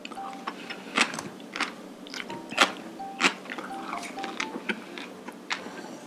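Close-miked mouth sounds of a person eating jajangmyeon (black bean noodles): wet chewing and crunching, with several sharp smacks, the loudest about two and a half seconds in. Soft background music under it.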